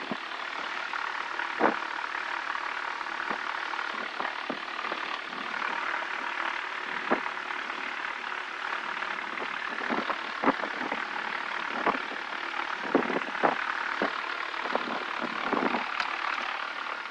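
Steady cabin noise of the Beechcraft Duchess's twin piston engines at low taxi power, with scattered short clicks and knocks throughout.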